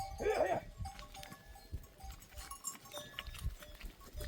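A goat bleats once, a short wavering call near the start, followed by fainter scattered clicks and calls from the herd.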